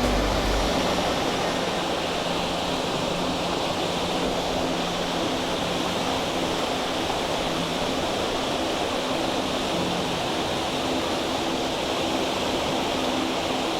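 Waterfall rushing, a steady full roar of falling water close by.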